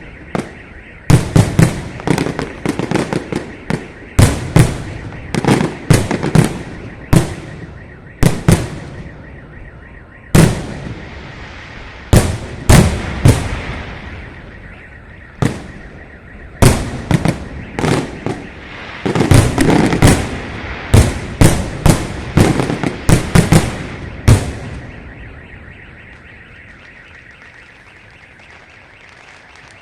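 Salute fireworks: aerial shells bursting overhead in quick clusters of sharp bangs, each trailing off in a short echo, stopping near the end. A car alarm wails steadily underneath and keeps going after the bangs stop.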